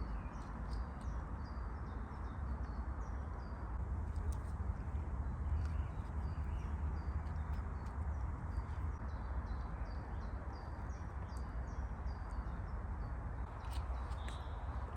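Small birds chirping, many short high notes repeated two or three a second, over a steady low rumble and hiss.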